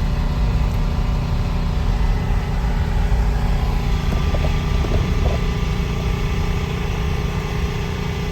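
An engine idling steadily with a deep, constant rumble.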